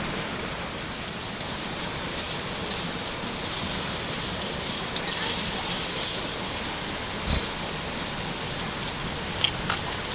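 Steady rain falling, with a few sharp clicks, one louder near the end.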